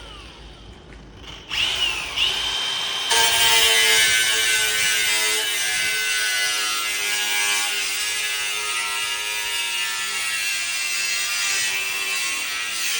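Power tool cutting through the car's sheet metal, starting about a second and a half in, building up, then running loud and steady under load.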